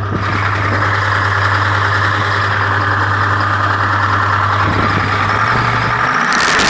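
Chevrolet truck's Detroit Diesel engine running steadily at idle through its exhaust. Near the end the engine note lifts slightly, and a loud crackling rasp takes over.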